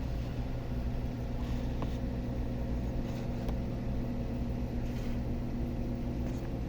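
Steady low mechanical hum, like an electric fan or small motor, with a steady tone that stops near the end; faint short rustles come and go every second or two.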